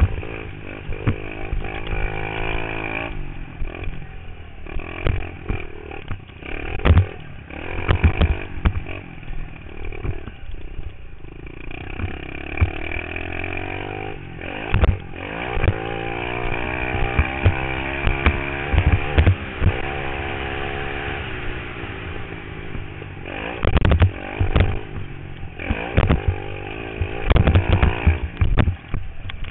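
Pit bike engine revving up and down as it is ridden, its pitch repeatedly rising and falling with the throttle, heard through a helmet-mounted camera with frequent sharp knocks and buffets on the microphone.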